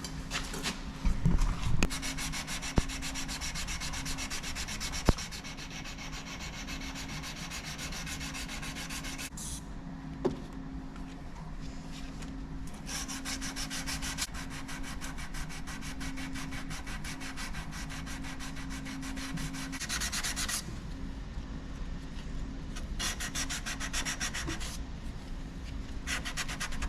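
Sandpaper being rubbed by hand along a Damascus steel knife blade in quick back-and-forth strokes. The strokes come in runs broken by short pauses, over a steady low hum.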